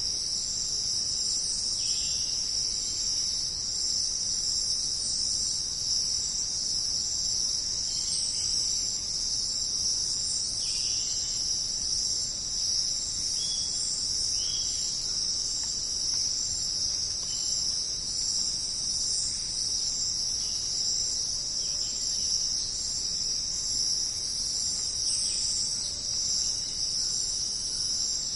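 Rainforest insect chorus: a dense, continuous high-pitched trilling drone that holds steady throughout, with short faint chirps from other calls now and then.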